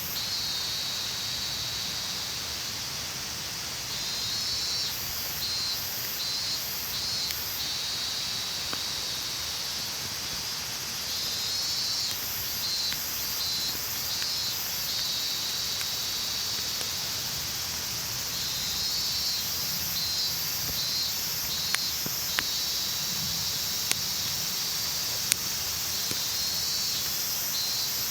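Insects calling in repeated high pulses, a few a second in runs that come and go, over a steady hiss, with a few sharp clicks in the second half.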